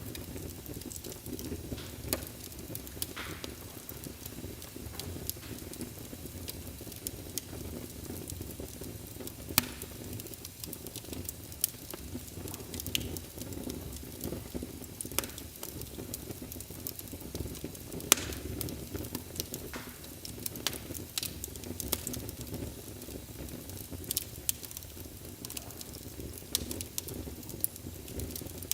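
Wood fire burning in a fireplace: a steady low rumble of flames with irregular sharp crackles and pops, the loudest about ten and eighteen seconds in.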